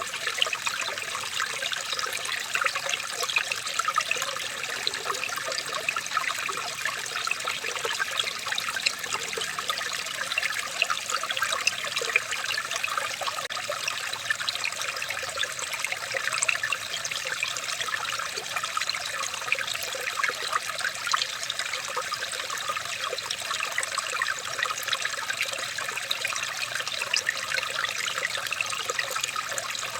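Running water trickling and bubbling steadily, with many small splashes.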